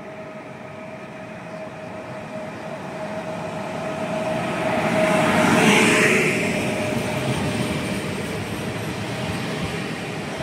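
PESA Elf electric multiple unit pulling out of the station and passing close by. Its running gear and wheels on the rails grow louder to a peak about six seconds in, then fade, over a steady whine.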